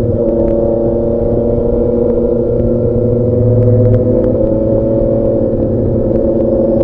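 Loud motorcycle engine with a straight-through exhaust, held at fairly steady revs with its pitch drifting slightly up and down.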